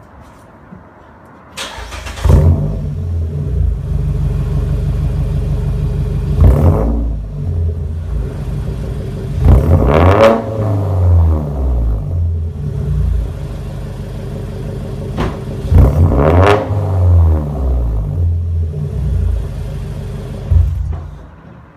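Mazda 3 Skyactiv four-cylinder engine breathing through a Corksport Power Series aftermarket exhaust with race pipe and headers. It starts about two seconds in and settles to a steady idle. It is blipped three times, each rev climbing and falling back, and it shuts off suddenly near the end.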